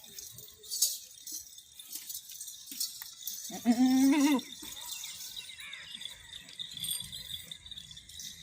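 A goat bleating once, a single wavering call lasting about a second, near the middle.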